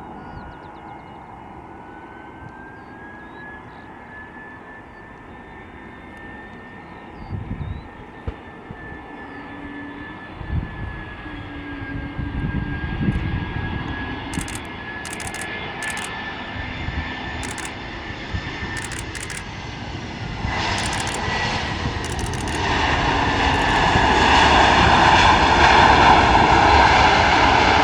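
Jet airliner on landing approach: a steady engine whine and roar growing louder as it nears, loudest near the end.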